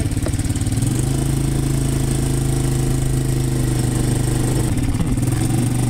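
An engine running steadily, a low even drone that is a little rougher for the first second and then settles.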